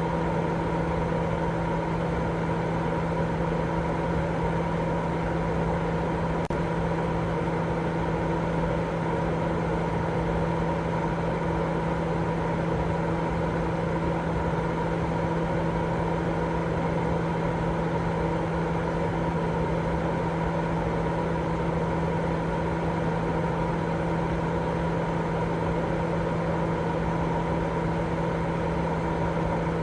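Continuous baby-sleep white noise: an even, unchanging rushing sound weighted toward the low end, with a constant low hum running through it.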